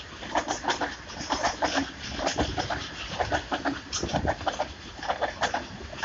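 Loaded freight train of covered goods wagons rolling past, its steel wheels clacking over the rail joints in repeated quick clusters of sharp clicks, over a low rumble.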